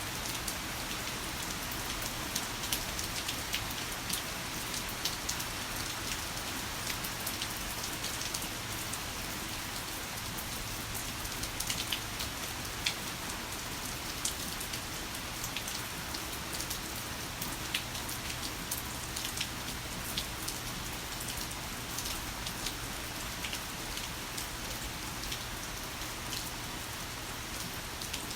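Heavy rain falling steadily, a dense even hiss with many sharp ticks of individual drops striking a surface.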